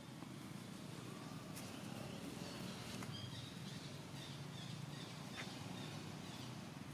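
Faint outdoor background noise with a few short, high animal chirps a little before the middle, and some light clicks.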